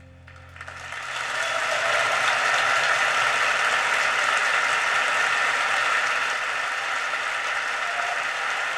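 Concert audience applauding at the end of a song, swelling over the first couple of seconds and then holding steady.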